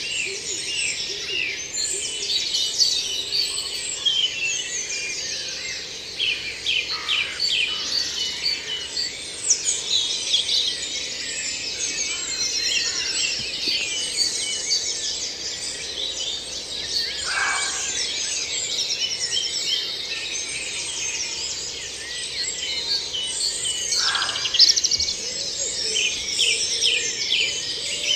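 Woodland dawn chorus: many songbirds singing at once in overlapping phrases, with no single song standing out for long.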